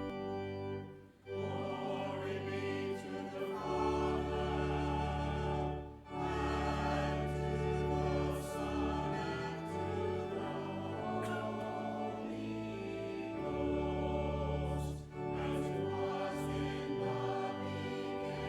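Voices singing together with organ accompaniment: sustained chords over deep bass notes, sung in phrases with short breaths between them.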